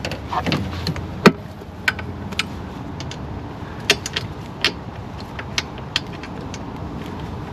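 Metal hand tools clicking and clinking, irregular sharp taps a second or so apart, as a socket wrench is worked on to a nut.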